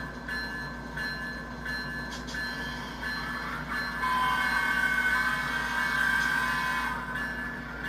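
Model train running on a layout: a steady mechanical hum with high tones on top, growing louder for a few seconds midway.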